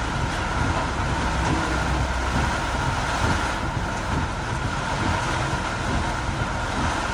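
Steady noise of a vehicle driving through torrential rain on a waterlogged road: rain and tyre spray mixed with low road rumble, unbroken throughout.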